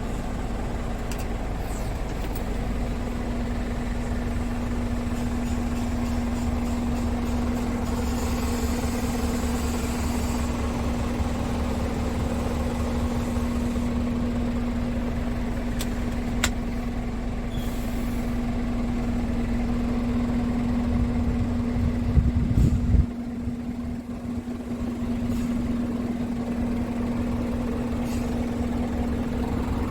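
Scania P410 truck's diesel engine idling steadily with an even low hum. A little over twenty seconds in, a louder low rumble swells for a second or two and then cuts off suddenly.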